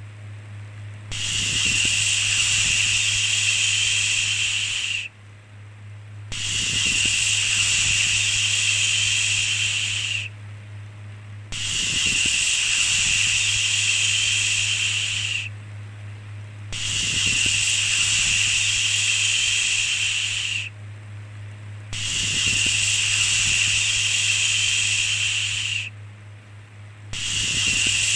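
A repeated 'shhh' shushing sound: each shush lasts about four seconds and is followed by a pause of just over a second, about five in a row. A steady low hum runs underneath.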